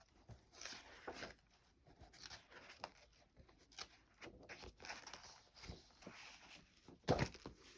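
Paper rustling as the pages and covers of old paper doll books and storybooks are handled and turned: scattered soft rustles, with a louder one about seven seconds in.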